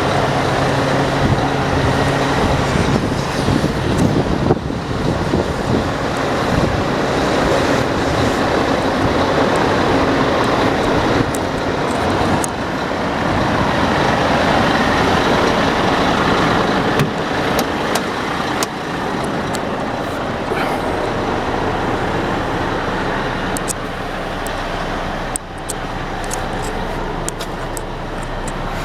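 Scania R440 tractor unit's diesel engine running, its steady hum in the first few seconds giving way to a broad rushing vehicle noise, with scattered sharp clicks later on.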